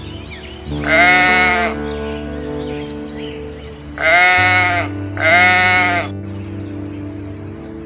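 Three loud bleats, each under a second and arching up then down in pitch: about a second in, at four seconds, and just after five seconds. Steady background music runs underneath.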